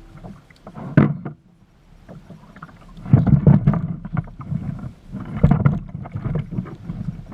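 Water slapping and sloshing against a kayak's hull, with irregular deep knocks and thumps; the sharpest knock comes about a second in.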